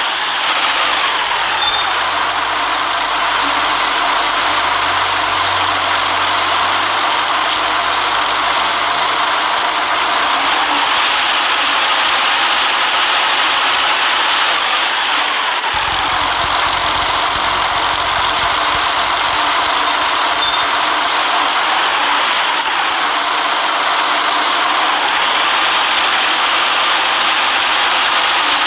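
City bus driving along, its engine running under a steady rush of road noise. The low engine hum eases off for several seconds in the middle and then comes back in.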